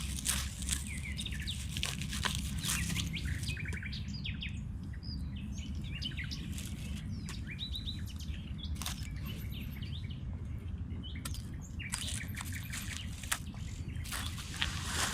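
Small birds chirping and twittering in forest, over a steady low rumble, with scattered sharp clicks and crackles.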